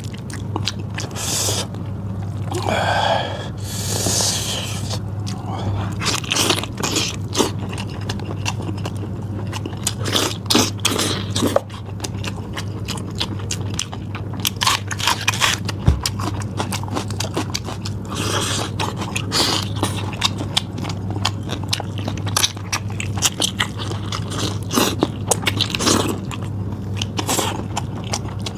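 A person eating close to the microphone: irregular bites and chewing of meat, with wet smacks and crunchy clicks. A steady low hum runs underneath.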